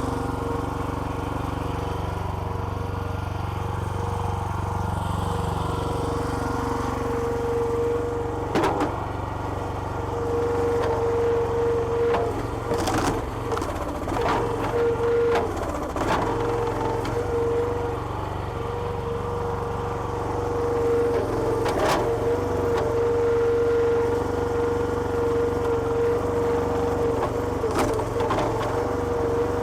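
Small petrol engine of a homemade hydraulic log splitter running steadily, with a held high tone that drops out and comes back. Logs crack and split with sharp snaps several times from about nine seconds in.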